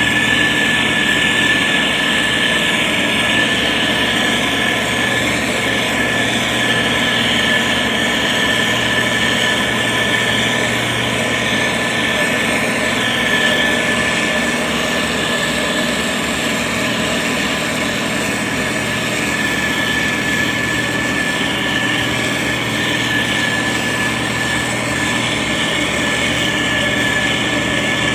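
The diesel engine of a SANY STG190C-8S motor grader running steadily while it works. A constant high whine sits over the engine noise, and the level barely changes.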